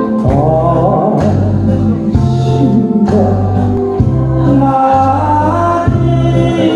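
A man singing a slow song over keyboard accompaniment, with a bass line that moves to a new note about once a second.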